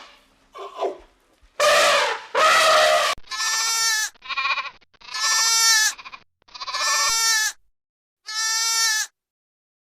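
Two harsh squealing calls from young elephants, then lambs bleating about five times, each bleat a clear pitched cry of under a second.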